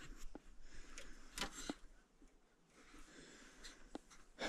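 A few faint clicks and light knocks over low rustling: handling noises as parts and tools are moved about.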